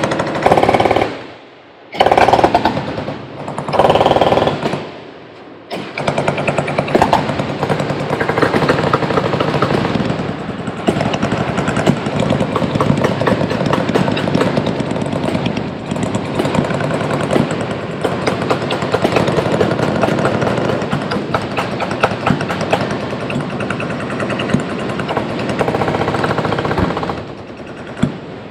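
Machine guns firing on full automatic: three separate bursts in the first few seconds, then many guns firing together in continuous, overlapping fire for about twenty seconds, which stops shortly before the end.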